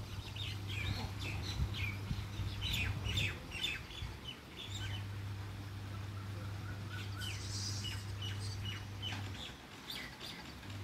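Small birds chirping: many short, quick, falling chirps, busiest in the first half, with a few softer chirps later. A steady low hum runs underneath and breaks off briefly about halfway through and again near the end.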